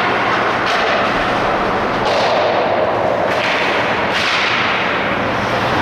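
Game play on an ice rink: a steady rush of noise with four sudden sharp hits or scrapes, roughly a second apart.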